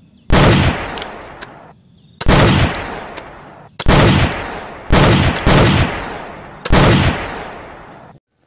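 Six loud gunshots, each a sudden bang with a tail that fades over a second or more, two of them close together in the middle; the sound stops abruptly near the end. A gunshot sound effect dubbed over a toy gun being fired.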